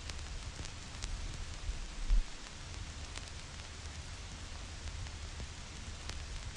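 Vinyl record crackle over steady white-noise hiss: a few sharp clicks and pops over a low rumble, with one louder low thump about two seconds in.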